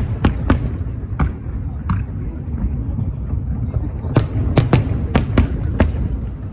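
Aerial fireworks going off in sharp bangs over a steady low rumble. There are a few scattered bangs in the first two seconds, then a quick run of about seven bangs from about four seconds in.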